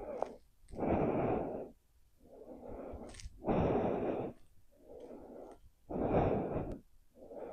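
A person breathing slowly and deeply, close to the microphone: a breath in and a breath out about every two seconds. The breaths alternate softer and louder, with three louder ones.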